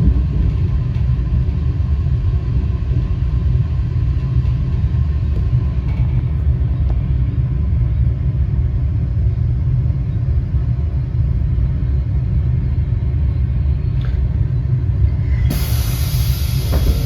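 Low, steady rumble inside a GWR Class 802 train as it runs into the station. About fifteen seconds in, a sudden loud hiss joins it.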